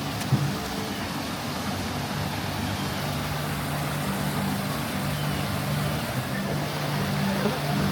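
Man-made waterfall and creek: a steady rush of falling water, with one brief knock just after the start.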